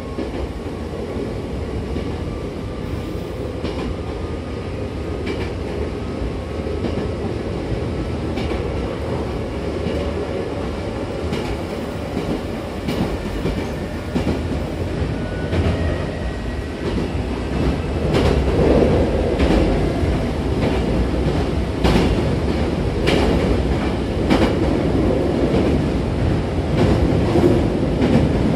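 Hankyu 6000-series commuter train running between stations, heard from inside the car: a steady rumble of wheels on the rails with scattered clicks over the rail joints. It grows louder about two-thirds of the way through.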